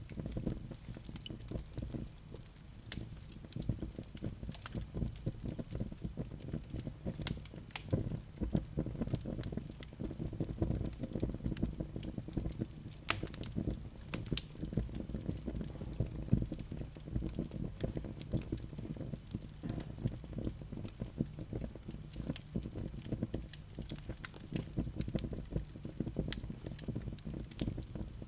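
Wood fire burning in a fireplace: a steady low rush of flames with many sharp crackles and pops from the burning logs, a few louder pops standing out.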